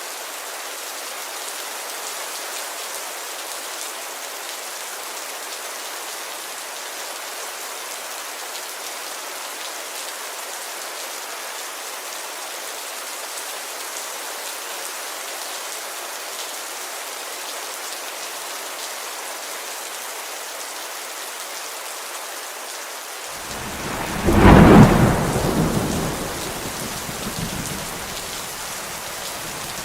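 Steady rain falling on a window, with a sudden loud clap of thunder about three quarters of the way through that rumbles and fades over a few seconds.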